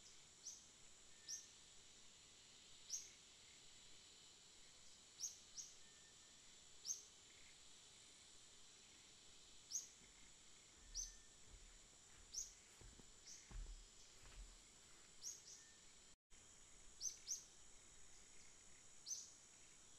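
A small bird chirping, short high chirps that fall slightly in pitch, coming irregularly about once every second or two. Under them is a faint steady hiss with a thin high whine.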